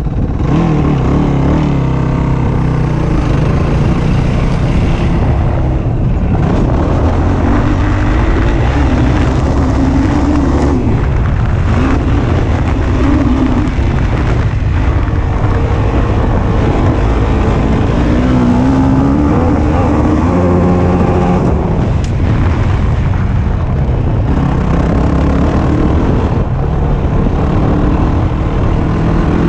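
Yamaha YFZ450 quad's single-cylinder four-stroke engine under hard riding, revving up and down repeatedly with brief drops in throttle.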